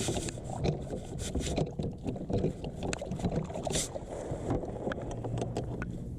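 Handling noises aboard a fishing kayak: scattered light knocks and clicks against the hull and gear, with a steady low hum that comes in about five seconds in.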